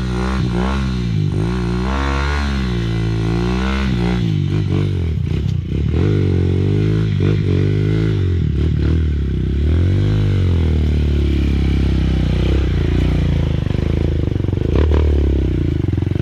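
Honda CRF230F trail bike's single-cylinder four-stroke engine revving up and down over and over in low gear as it climbs a rough trail, with an occasional clatter.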